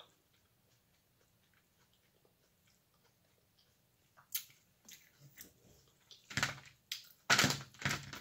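A person chewing and smacking their lips close to the microphone while eating corn on the cob. It is almost silent for the first few seconds, then scattered wet clicks begin and grow into louder, denser smacking over the last two seconds.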